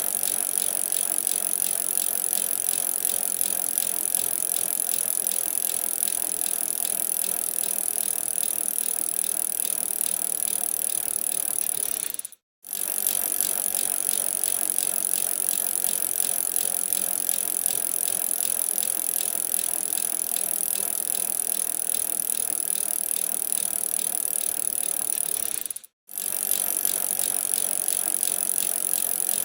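Bicycle being ridden: a steady rolling noise of tyres with the bike rattling. It drops out to silence twice, briefly, about halfway through and again near the end.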